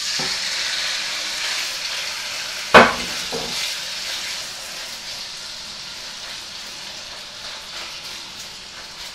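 Raw chicken pieces sizzling as they go into hot vegetable oil in a deep non-stick pan, the sizzle slowly dying down. A single sharp knock about three seconds in, followed by a smaller one.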